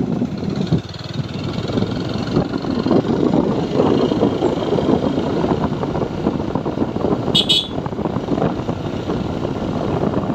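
TVS Apache 4V motorcycle running along at steady speed, its engine and the rush of riding mixed with wind on the microphone, with one short high-pitched sound about seven and a half seconds in.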